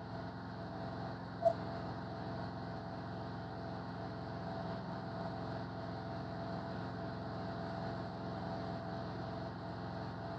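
A steady mechanical hum, with one brief, louder blip about one and a half seconds in.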